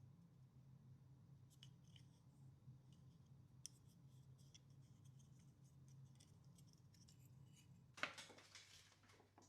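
Faint workbench handling sounds: scattered light clicks and ticks of small parts and tools over a low steady hum. The hum stops about eight seconds in, just as a short louder rustle is heard.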